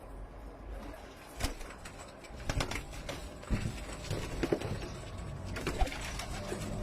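Domestic pigeons cooing, with a few sharp clicks or knocks scattered through.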